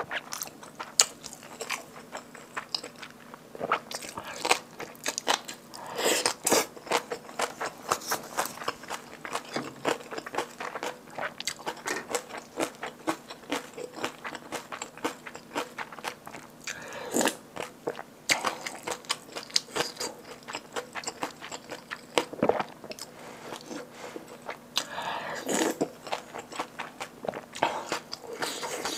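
Close-miked mouth sounds of eating kimchi stew, Spam and kimchi: steady chewing full of short wet clicks and crunches, with a few louder, longer bursts about 6, 17 and 25 seconds in.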